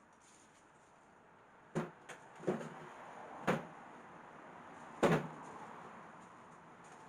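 Wooden knocks and bumps from the old pine coffee table being handled, with five short knocks over about three and a half seconds and the loudest near the end.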